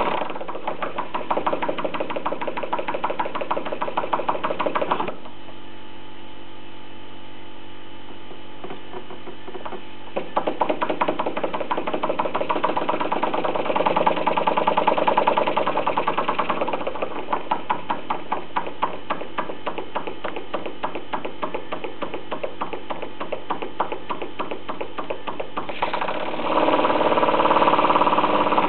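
Single-cylinder model marine steam engine running in a fast, even beat. About five seconds in it stops and only a steady hum remains. Some five seconds later it starts beating again, louder for a while and then at a slower, more widely spaced beat, under radio-control speed regulation.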